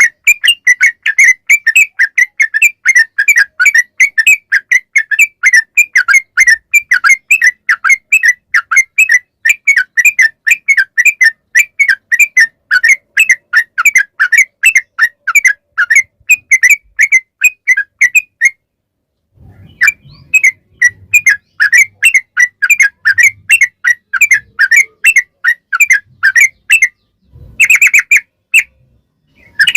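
Yellow-vented bulbul (trucukan) singing a long, fast run of short whistled notes, several a second, breaking off briefly about two-thirds of the way through and again near the end.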